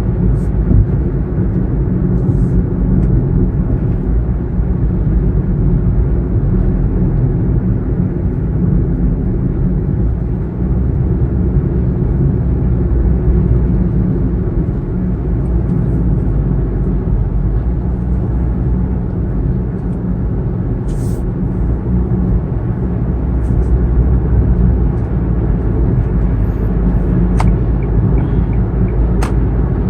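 Interior of a Kia Morning small hatchback at highway speed: a steady low rumble of engine and tyre-on-road noise heard from inside the cabin, with a few faint ticks.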